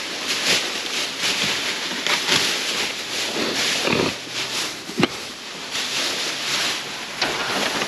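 Rustling and crinkling of plastic bags and packaging as items are pulled and rummaged through in a dumpster, with a sharp knock about five seconds in.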